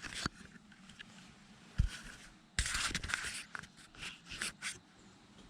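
Rustling and scraping of someone shifting about with clothing and gear in a small wooden hunting blind, with a few sharp clicks, one dull thump a little under two seconds in, and a longer rustle about halfway through.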